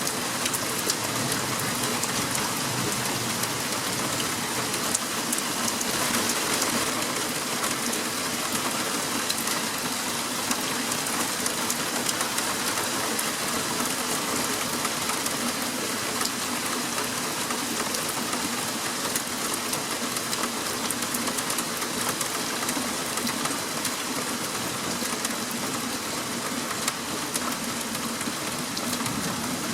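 Steady rain falling during a thunderstorm, many small drop impacts ticking over a constant wash of noise.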